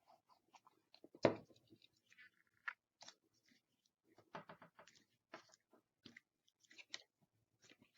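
Faint rustling and small clicks of card being handled and pressed down to stick it in place, with one sharper tap about a second in.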